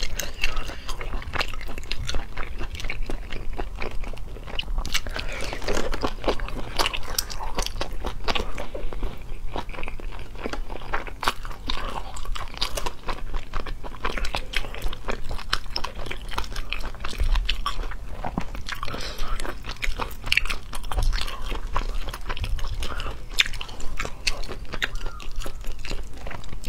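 Close-up eating sounds of someone chewing snail meat in a spicy sauce: wet chewing and biting, with many small sharp clicks and crunches coming irregularly all through.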